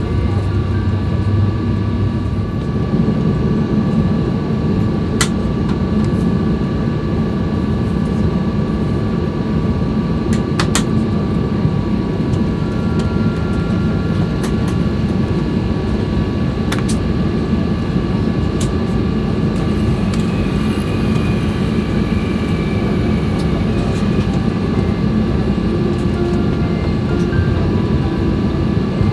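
Steady cabin noise inside a Boeing 737-800 on the ground: a low rumble from the engines and air system with a constant high whine, and a few faint clicks.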